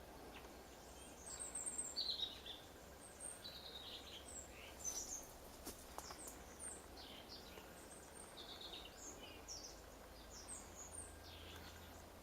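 European robin singing: short, high, thin phrases in bursts throughout, faint over a steady background hiss.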